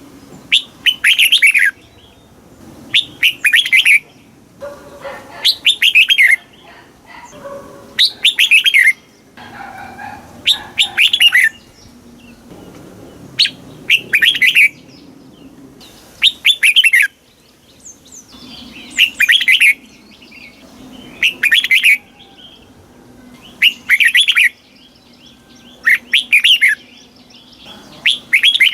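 Red-whiskered bulbul singing: short, loud phrases of quick, bubbly notes, repeated about every two and a half seconds.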